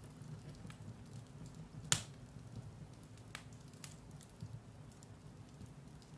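Firewood burning in a fireplace: a steady low rumble of flames with scattered sharp crackles and pops, the loudest a single pop about two seconds in.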